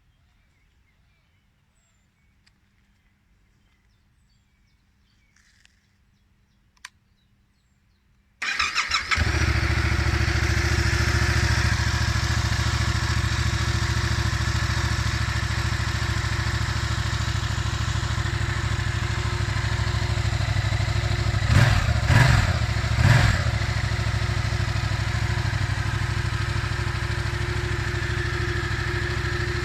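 Yamaha MT-07's parallel-twin engine starts about eight seconds in and settles into a steady idle, with two short throttle blips about two-thirds of the way through.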